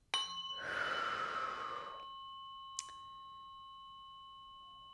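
A tuning fork is struck with a sharp click and rings with clear, steady high tones that fade slowly. A long breathy exhale comes over the first two seconds, and a light click sounds near the three-second mark.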